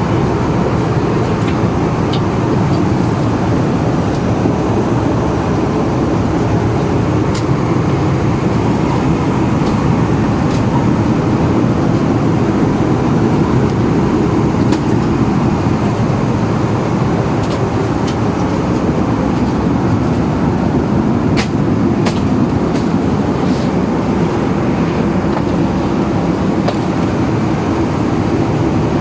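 Steady low rumble of a moving vehicle heard from inside it, with faint light clicks and rattles now and then.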